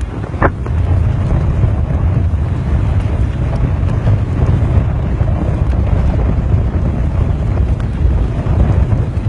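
Wind buffeting the microphone: a loud, uneven low rumble, with one brief short sound about half a second in.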